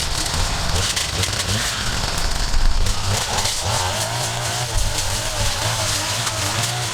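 Steady engine noise from gas-powered yard-clearing equipment, with a low hum and a wavering, higher whine that comes in about halfway through.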